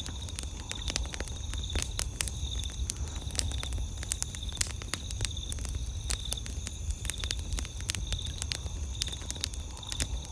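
Campfire crackling with many sharp pops and snaps throughout, over steady high-pitched chirping of night insects, the lower chirp pulsing in a regular rhythm.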